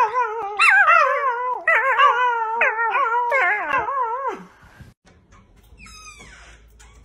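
A puppy howling in a long, wavering howl whose pitch wobbles up and down, stopping about four seconds in. A faint high squeal, falling in pitch, follows near the end.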